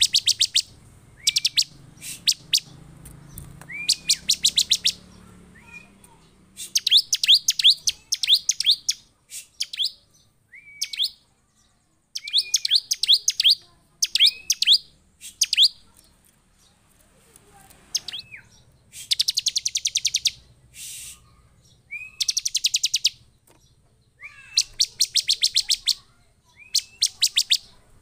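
Bar-winged prinia (ciblek) calling excitedly: bursts of rapid, high-pitched chip notes about one to two seconds long, each often led by a short rising note, repeated again and again after brief pauses.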